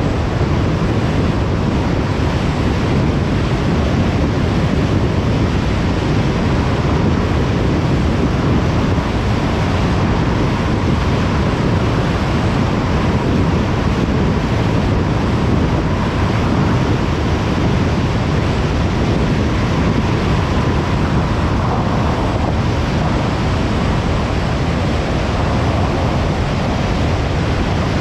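Steady road and wind noise of a car cruising on a motorway: an even, unbroken noise with a faint steady whine.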